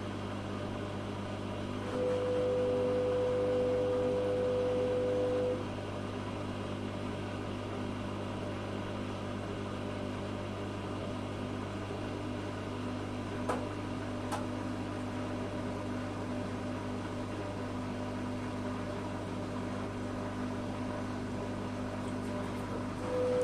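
Zanussi FA623 washing machine running with a steady hum; about two seconds in its motor turns the drum with a whine for about three and a half seconds, then stops, and starts again near the end. Two faint clicks in between.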